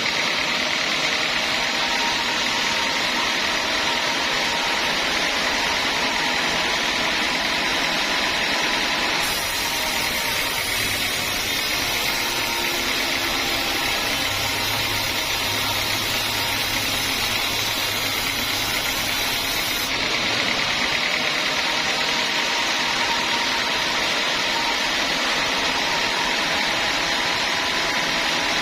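Homemade bandsaw mill running steadily with an even, unbroken machine noise; its upper tone shifts slightly about nine seconds in and again about twenty seconds in.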